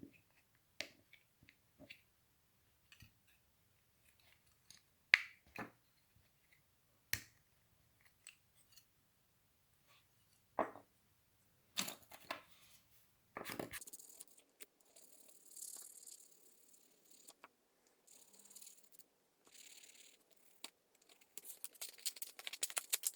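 Faint small clicks and taps of handling a small plastic part, then from about halfway the scratchy strokes of a file or sandpaper on the plastic door piece, coming faster and denser near the end.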